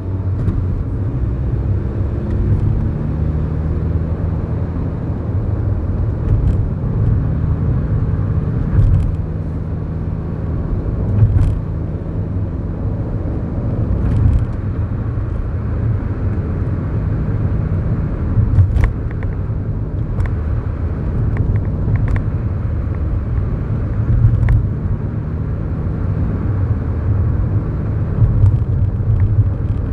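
Inside the cabin of a 2011 Kia New Morning, its 999cc four-cylinder SOHC engine runs steadily under a low road rumble, with a few light clicks here and there.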